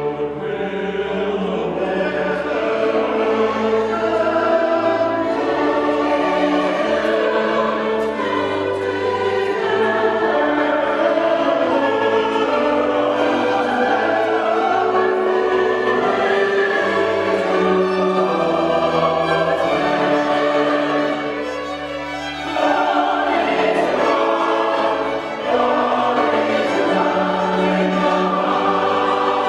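A choir singing a sacred choral piece with instrumental accompaniment, in long held chords. The music softens briefly about three quarters of the way through, then the full choir comes back in.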